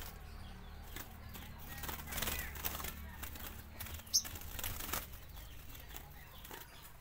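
Small birds fluttering and flapping their wings in short rustling bursts, with a couple of brief high chirps.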